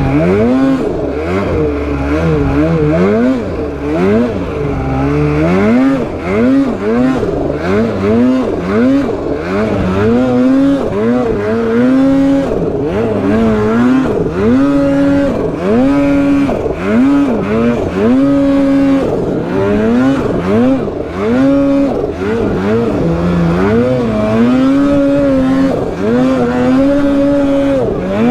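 Two-stroke Polaris snowmobile engine revving hard under riding, its pitch climbing and dropping again and again as the throttle is worked, held high for a few seconds at a time in the second half.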